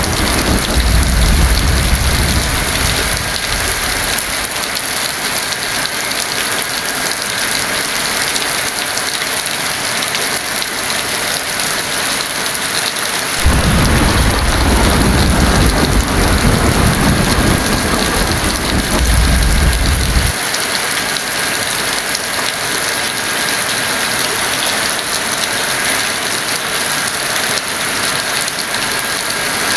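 Heavy rain falling steadily with a dense hiss, with rolls of thunder rumbling low underneath: one dies away in the first few seconds, and another starts suddenly about halfway through, rumbles for several seconds, then cuts off.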